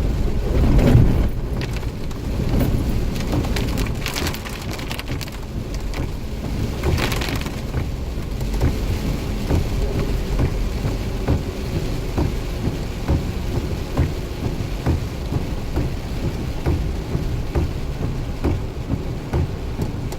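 Heavy thunderstorm rain, with many separate drops striking close by, and a low rumble of thunder swelling about a second in.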